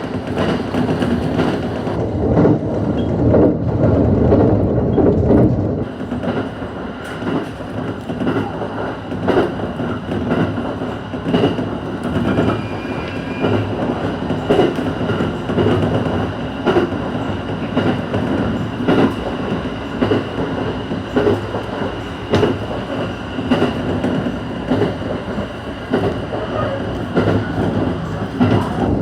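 ET127 series electric multiple unit running along the track: steady running noise with many short clicks of the wheels passing over rail joints.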